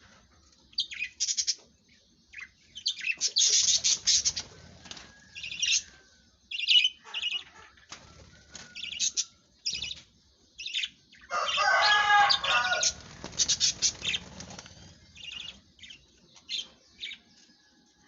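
Budgerigars chirping in short, high calls that come in scattered clusters, with a louder, longer burst of chatter around the middle.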